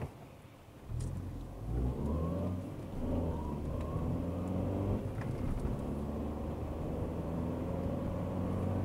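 A car's engine pulling away from a standstill and accelerating, heard from inside the cabin. The revs climb about a second and a half in, dip briefly, climb again, then settle into a steady drone.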